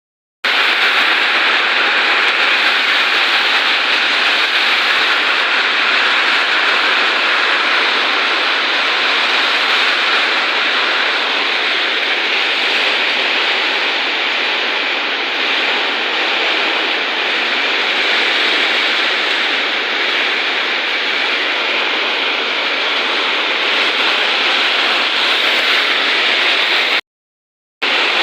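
Heavy rain pouring down in strong wind, a steady dense hiss that drops out briefly near the end.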